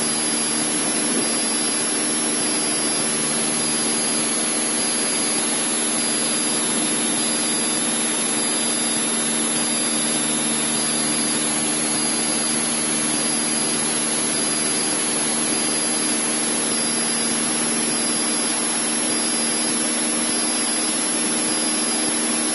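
Cessna 152's four-cylinder Lycoming piston engine and propeller droning steadily at cruise power, about 2,200 RPM, heard inside the cabin with the rush of airflow over the airframe.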